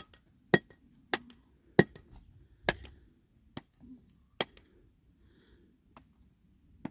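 A series of sharp, separate clinks or knocks, hard objects striking, about one every half second to a second and irregularly spaced, the loudest near the start.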